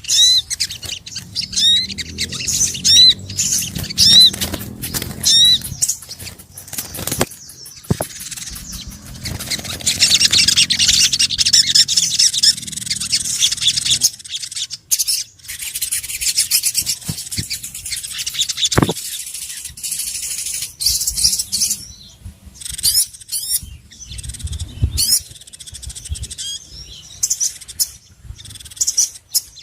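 Bird-lure recording of sogon sunbird calls: short high chirps repeated in quick series, with a dense stretch of rapid high-pitched calling in the middle.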